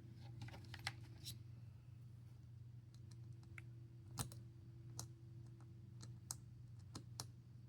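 Faint, scattered clicks and taps of small precision screwdrivers being handled and tried on a phone's tiny Y-type screws, the sharpest about four seconds in, over a low steady hum.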